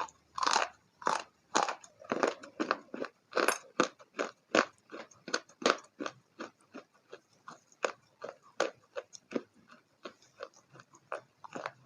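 Crunchy food being bitten and chewed close to the microphone: a steady run of crisp crunches, about two or three a second.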